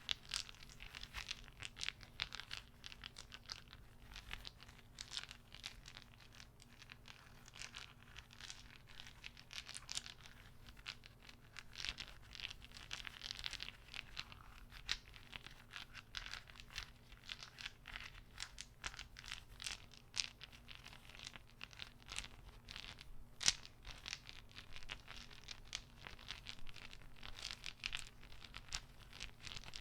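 Wooden beads clacking together as they are handled: a dense, irregular run of soft clicks, one louder clack near the end.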